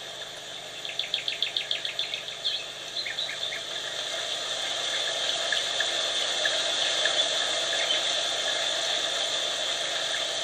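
Birds chirping over a steady insect drone, with a quick run of about eight chirps about a second in and scattered single chirps after.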